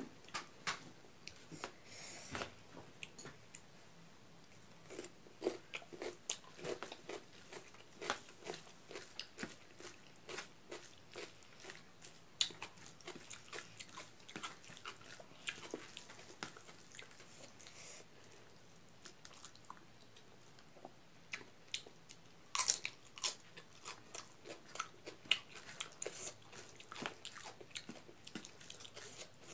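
Close-miked eating sounds: chewing and crunching of a hand-eaten meal of rice with eromba and raw vegetables, in irregular clicks and crunches. There is a short lull about two-thirds of the way through.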